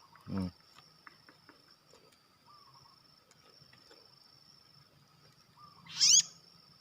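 Bar-winged prinia (ciblek) giving one sharp, loud call about six seconds in, over a steady high cricket-like drone. A short low sound comes just after the start.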